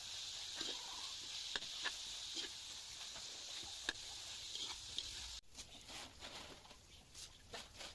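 A steady high hiss with scattered sharp crackles and clicks, which cuts off abruptly about five seconds in, leaving a quieter stretch with occasional clicks.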